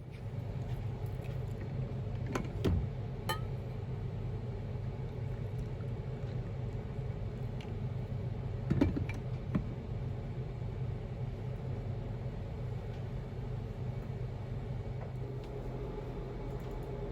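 A steady low hum, with a few short clicks and knocks about two to three seconds in and again about nine seconds in.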